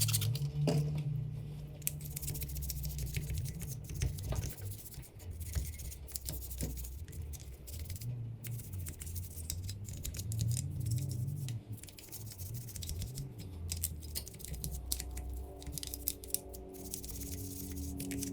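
Irregular scratchy scrubbing on a dirt-bike engine casing as caked-on grime is worked off, over background music with a steady bass line.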